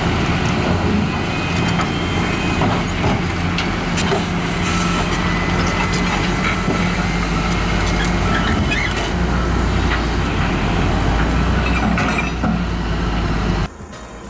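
Heavy vehicle's diesel engine running steadily under load, with scattered knocks and clatter, cutting off abruptly near the end.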